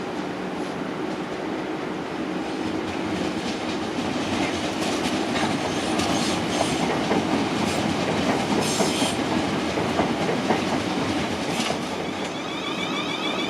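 A passing train, its wheels clicking and clattering over rail joints, growing louder towards the middle and easing off near the end.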